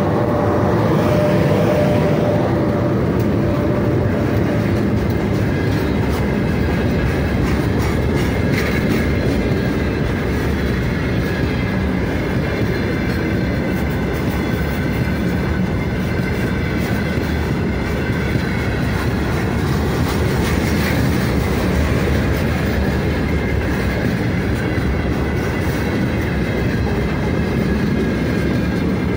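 Freight train wagons rolling past close by: a steady rumble of wheels on rails with clickety-clack. A steady whine fades out within the first few seconds, as the electric locomotive goes by.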